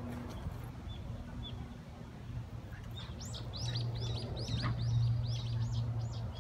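A small bird singing a fast run of repeated high chirps, about three a second, starting about halfway through, over a low steady hum that grows louder at the same time.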